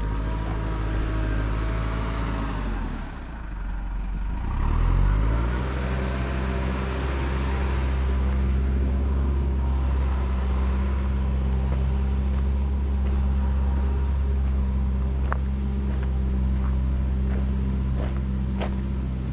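Car engine running while driving. The revs fall about three seconds in, climb again a couple of seconds later and then hold steady. A few sharp clicks come near the end.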